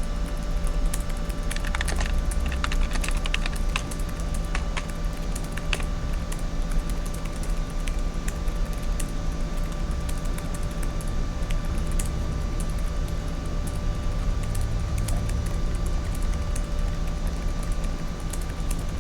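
Office ambience: a computer keyboard being typed on in scattered runs of clicks, busiest in the first few seconds, over a steady hum.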